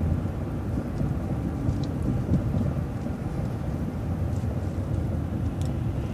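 Steady low rumble of engine and road noise inside a moving transit bus, with a few faint ticks.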